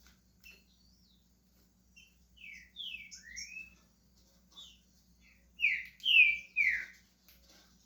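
Green-winged saltator (trinca-ferro) singing: a few short chirps, then a phrase of three slurred whistled notes about two seconds in, and a louder phrase of three falling whistles near six seconds.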